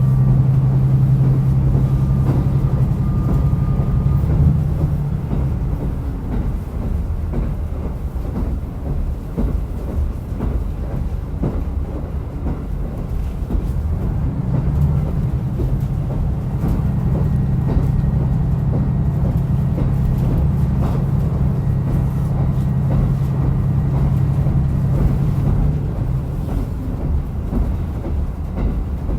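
Diesel railcar running on the Rumoi Main Line: a steady low rumble of the train under way. A strong engine drone is loud at first, eases off about five seconds in, and returns from about seventeen to twenty-six seconds.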